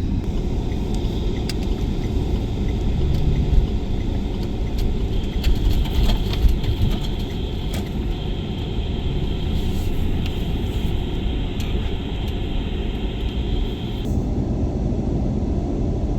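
Steady low rumble of a running van heard from inside the cab, with a faint high whine that stops near the end and a few small clicks.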